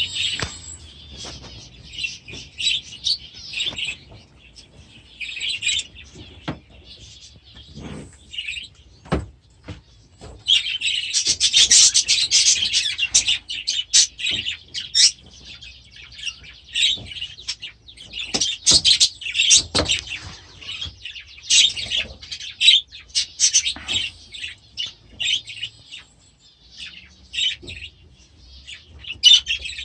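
A flock of budgerigars chattering and chirping in fast, irregular warbles, getting busier and louder for a few seconds near the middle. Scattered short clicks and knocks sound among the calls.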